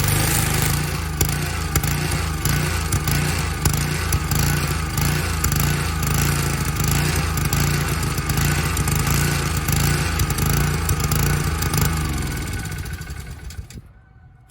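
Honda-powered Kärcher G2600 VH pressure washer running steadily, its engine and pump going, then winding down and stopping near the end. The engine still needs adjusting, which the owner suspects is a carburettor issue.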